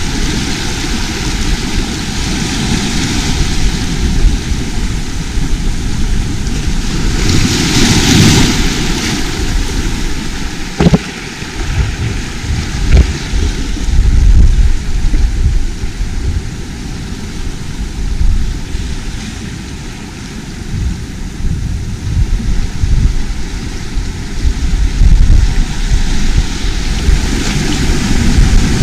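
Wind buffeting the microphone in a loud, uneven low rumble over the sound of the sea, with a wave washing in with a rush of hiss about eight seconds in.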